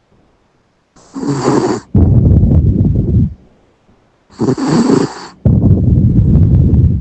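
Sleeping Yorkshire terrier snoring: two breaths about three and a half seconds apart, each a short hissing wheeze followed by a longer low rumbling snore.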